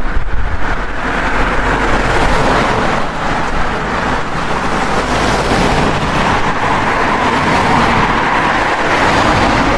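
Heavy truck driving under load, a steady engine and road noise with no change in pace.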